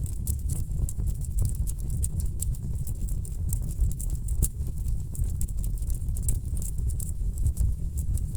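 Wood fire burning in a fireplace, crackling with many small irregular pops and snaps over a steady low rumble.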